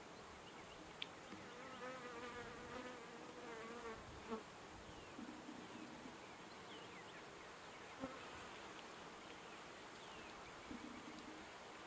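Honeybees buzzing around an opened Langstroth hive, single bees flying close by with a wavering pitch, strongest a couple of seconds in. A few light clicks come in between.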